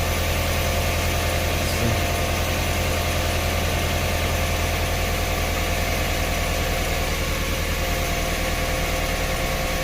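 2008 Jeep Grand Cherokee's 5.7-litre Hemi V8 idling steadily with a pulsing low drone. The engine is misfiring on cylinders 4, 6 and 7, with MDS cylinder-deactivation reactivation faults, and is running rough.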